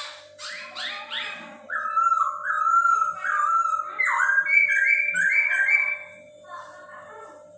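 Poksay Hongkong (masked laughingthrush) singing a loud run of clear whistled notes that step up and down in pitch, then softer chattering notes near the end. A faint steady hum runs underneath.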